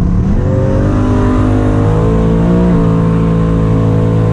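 A drag race car's engine running at high revs under load, its pitch climbing slightly, then dropping sharply about two and a half seconds in before holding steady.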